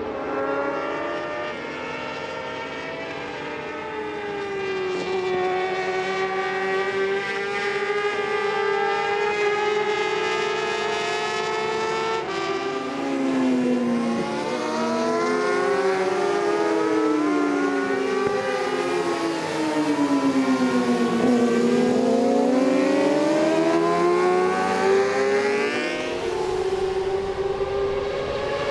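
Several racing superbike engines at high revs, their pitch rising and falling with gear changes and throttle. They run fairly steady at first, then from about halfway many engine notes swoop up and down across each other as the bikes race together.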